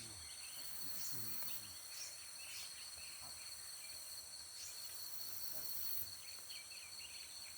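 Tropical forest insects droning in a steady, high-pitched chorus, with short faint chirps scattered through it.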